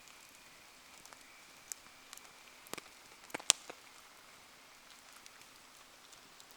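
Wood fire burning in the rain: scattered sharp pops and ticks over a faint steady hiss, with a short cluster of pops and the loudest single crack about three and a half seconds in.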